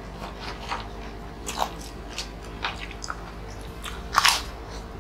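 People biting and chewing crunchy fried snack crackers: a run of irregular crisp crunches, the loudest about four seconds in.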